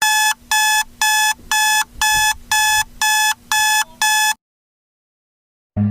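Electronic alarm beeping: nine identical short, high-pitched beeps at an even pace of about two a second, then it cuts off.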